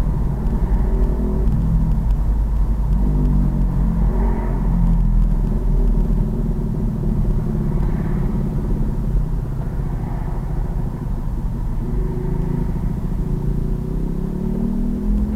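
Road-legal pit bike's engine running while riding, its pitch rising and falling with the throttle and climbing again near the end, over a heavy low rumble.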